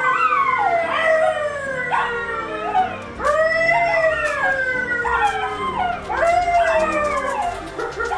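A dog howling in a string of long calls, each one rising quickly and then sliding down in pitch.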